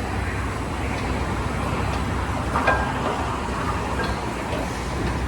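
Sonny's car wash tunnel equipment running: a steady mechanical din with a low hum, water spray hiss and clatter. A sharp clank about halfway through. The drying blowers are off.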